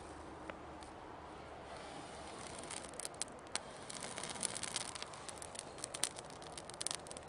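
Dry fallen wood crackling and snapping, with sharp pops growing denser about two and a half seconds in.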